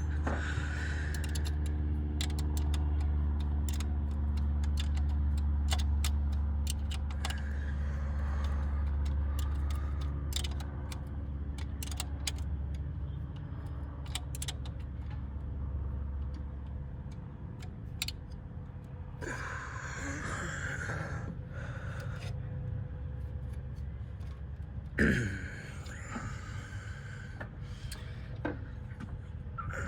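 Hand tools clicking and clinking against metal fasteners and parts while bolting components back onto a mini track loader, with two short stretches of scraping and rattling about two-thirds of the way in. Under it a steady low hum fades out a little over halfway through.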